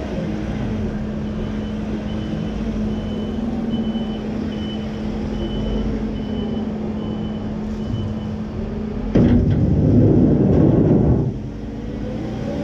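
A heavy diesel farm machine runs steadily while a reversing alarm beeps about once a second, then stops. Near the end a louder burst of noise lasts about two seconds.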